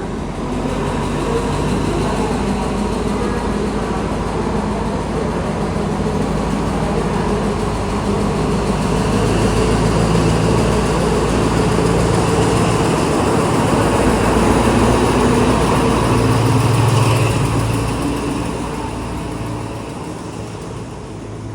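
Diesel train engine running as the train moves through the station, building to its loudest about 17 seconds in and then fading.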